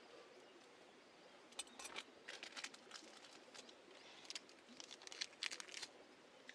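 Faint irregular crackles and clicks in two clusters, the first starting about a second and a half in and the second near the end, over quiet background.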